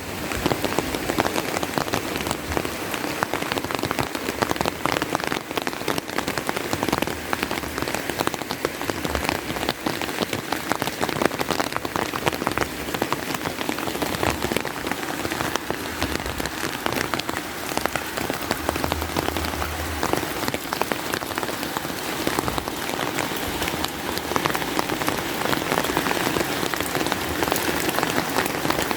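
Steady rain, with many close drops ticking sharply over a continuous hiss.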